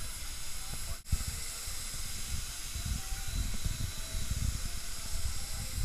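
Wind buffeting an action-camera microphone in uneven low gusts over a steady hiss, with a brief dropout about a second in.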